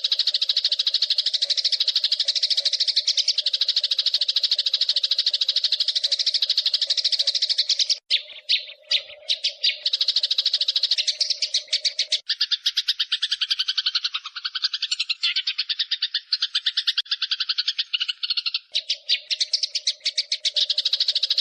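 Eurasian tree sparrows chattering in a fast, unbroken run of chirps, the excited rolling calls of sparrows fighting. The chirping breaks into separate calls about eight seconds in, turns lower and denser for several seconds, then returns to the rapid high run.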